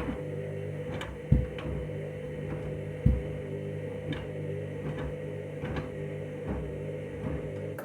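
Candy washing machine on its main wash, the drum tumbling a load of cushion covers: a steady motor hum with light clicks, and two loud thumps about a second and a half and three seconds in.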